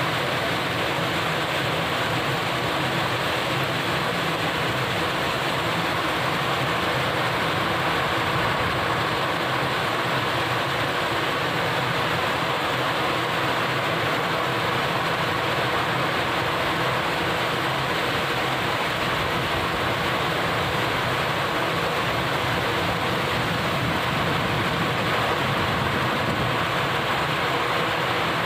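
Heavy rain falling steadily on a waterlogged, harvested rice paddy and the trees beyond: an even, unbroken hiss.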